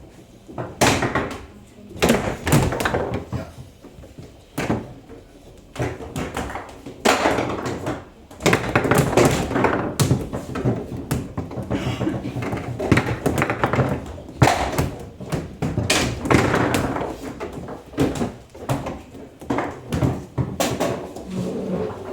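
Table football in play: repeated sharp knocks and thuds, irregularly spaced, as the rod figures strike the ball and the ball hits the table walls.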